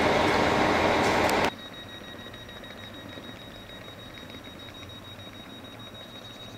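Loud rolling noise of a train, cut off abruptly about a second and a half in. After it comes quieter station ambience with a steady thin high-pitched whine, while an ED160 (Stadler FLIRT) electric multiple unit approaches slowly.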